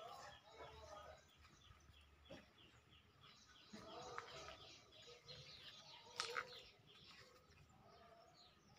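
Faint chirping of small birds: a quick run of short falling chirps, about five a second, with a lower call now and then.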